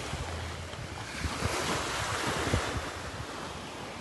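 Ocean surf washing onto a beach, swelling louder about halfway through, with wind buffeting the microphone in low thumps.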